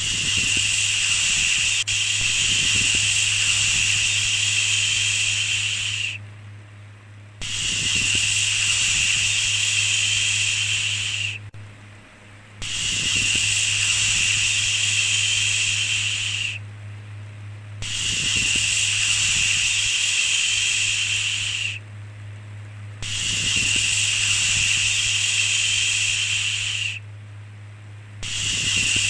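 Long 'shhh' shushing sound, repeated over and over: each shush lasts about four seconds, then breaks off for about a second before the next. A steady low hum runs underneath.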